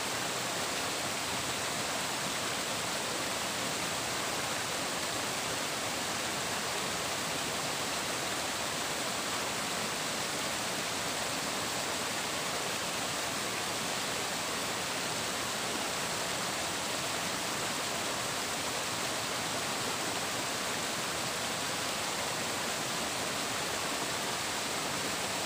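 Running water, a steady rushing and babbling hiss with no change in level.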